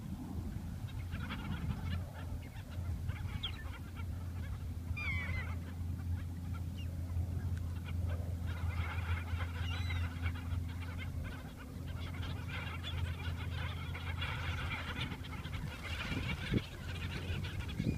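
Birds calling, many short calls and chatter, over a steady low hum that fades out near the end.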